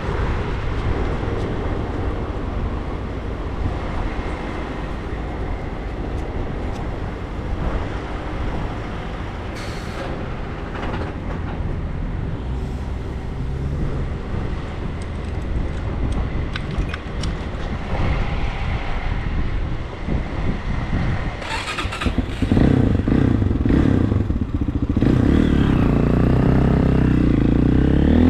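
Regulmoto TE enduro motorcycle's single-cylinder engine running while riding. About 22 seconds in it gets louder and the engine revs up as it accelerates.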